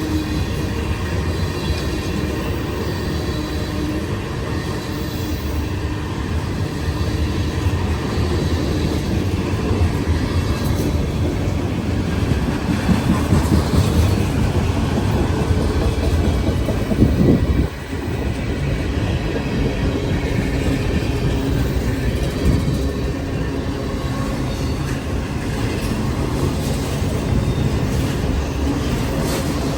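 A train rolling past on the tracks: a steady rumble of rail cars and wheels on rail, with a brief sharp dip in level about eighteen seconds in.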